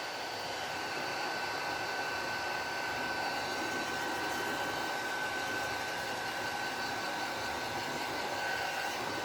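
Electric heat gun blowing steadily, a constant rush of air with a thin steady whine, shrinking heat-shrink tubing over soldered wire eyelets.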